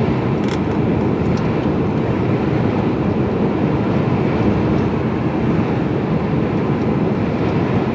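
Steady engine and road noise inside the cab of a Mercedes-Benz Actros lorry driving along.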